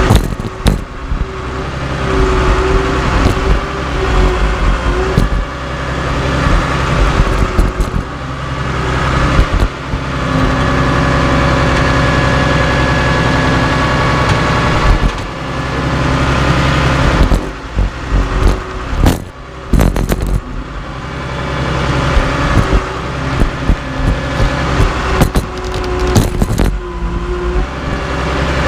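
Caterpillar D3C LGP bulldozer's diesel engine running under changing load, its level rising and falling, with sharp metallic clanks and knocks coming in clusters, most densely about two-thirds of the way in and again near the end.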